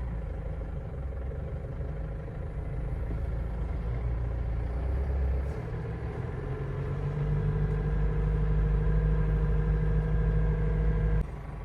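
Engine and road drone heard inside the cab of a GAZelle Next van on the move. It is steady, changes pitch about five and a half seconds in, grows louder, then drops off abruptly near the end.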